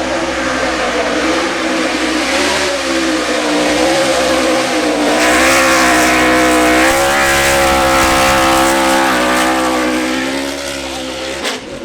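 Race car engine running hard, its pitch climbing about five seconds in and holding high before easing off. It drops away suddenly near the end.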